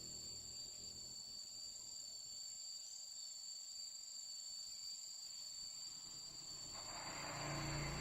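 Crickets' steady, high-pitched trill, two constant tones held without a break, with a soft rush of noise coming in near the end.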